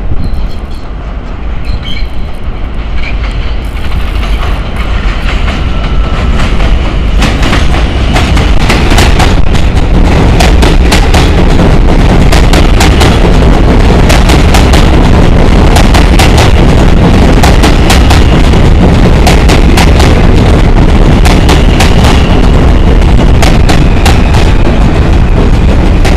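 An R160 subway train running into the station, getting louder over the first ten seconds and then staying loud, with a rapid clatter of wheels over rail joints. A brief high wheel squeal comes about five seconds in and again about twenty seconds in.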